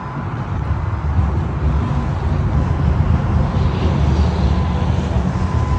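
Steady low mechanical rumble, growing louder over the first second or so and then holding even.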